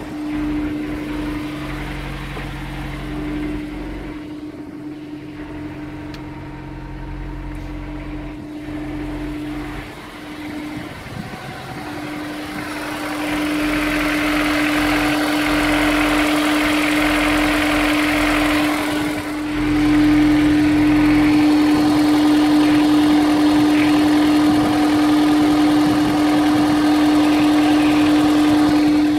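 Honda S2000's four-cylinder engine running steadily at idle after a cold start, with a constant droning tone; it gets louder about halfway through and again about two-thirds of the way in. The owner suspects a rod knock.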